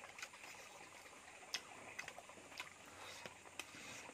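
Faint close-up eating sounds: a mouthful of curry and rice being chewed, with sharp, irregular wet mouth clicks and smacks, about half a dozen in the few seconds, over a faint steady hiss.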